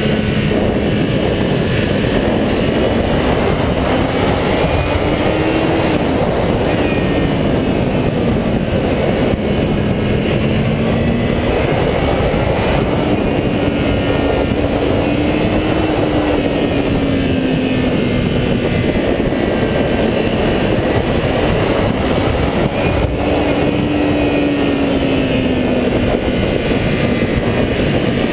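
A 400cc motorcycle engine running under way, its note climbing and then dropping sharply about six seconds in, then rising and falling slowly with the throttle. A loud steady rushing noise lies over it.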